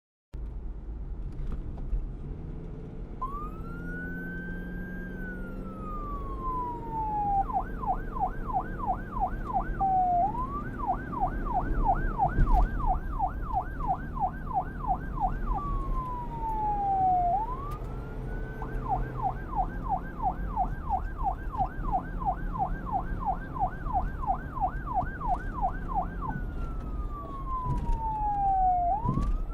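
Electronic emergency-vehicle siren switching back and forth between a slow rising-and-falling wail and a fast yelp of about three to four sweeps a second, over a low rumble. It starts suddenly just after the beginning.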